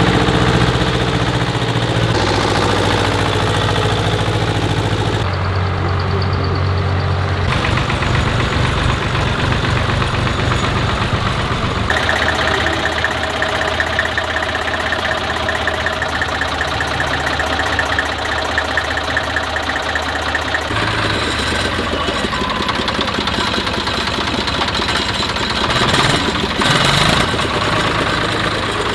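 Tractor engines running as tractors drive past one after another, a knocking diesel-like engine note that changes abruptly several times as one tractor gives way to the next.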